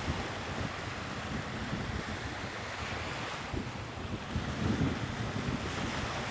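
Sea waves washing in as a steady rushing, with wind buffeting the microphone in low gusts.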